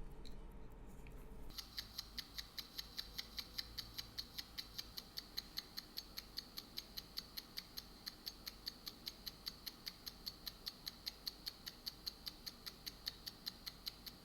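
Mechanical wristwatch movement, a Junghans calibre 620.02, ticking steadily at about five ticks a second, close up. The ticking starts about a second and a half in, after a little faint handling noise, showing the restored movement is running.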